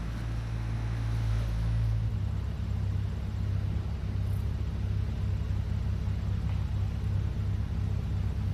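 1972 Chevrolet C50 dump truck's engine running with a low rumble. About two seconds in, the steady drone changes to a rapid, uneven low throb.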